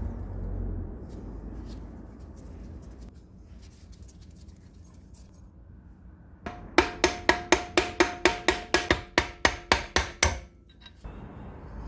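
A hammer striking metal in a fast run of about sixteen blows, four to five a second, each blow ringing. The run starts about halfway through, after several seconds of low, muffled noise.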